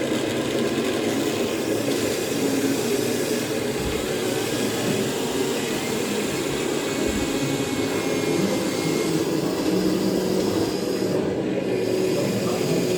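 Electric motors of radio-controlled model construction machinery whirring steadily as a model truck is loaded, with whining tones that shift in pitch and come and go.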